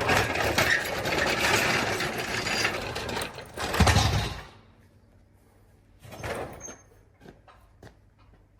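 Continuous mechanical rattling and clattering for about four and a half seconds, ending in a heavy thud; then a few light knocks and clicks.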